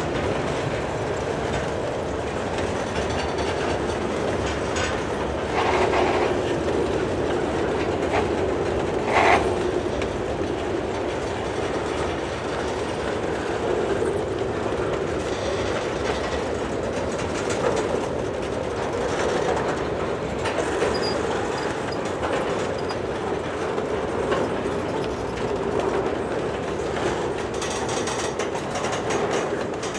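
Freight train of covered grain hopper cars rolling past, steel wheels clicking over the rail joints with a steady rumble as the train slows to stop. A sharp knock about nine seconds in stands out as the loudest moment.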